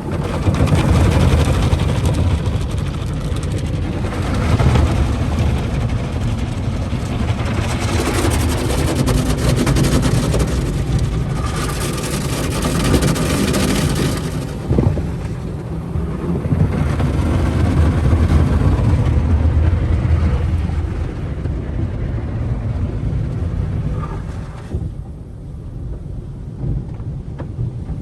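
Automatic tunnel car wash working over a car, heard from inside: water spray and scrubbing brushes and cloth curtains on the body, with a heavy low rumble. The noise swells and eases in waves as the car passes the stages, growing quieter near the end.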